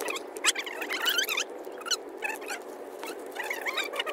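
Birds chirping in many short, squeaky calls, one after another, over a steady low hum.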